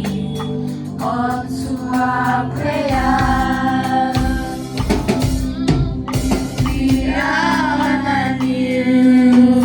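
Gospel song: voices singing long held notes together, with drums joining in around the middle.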